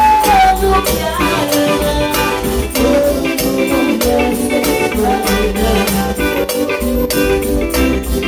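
Cumbia band music playing, with held instrument notes over a steady, fast percussion beat.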